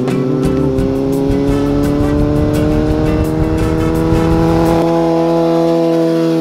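Kawasaki Z800 inline-four engine pulling steadily in gear as the motorcycle rides up and past, its pitch rising slowly and levelling off near the end. Background music with a beat plays over it.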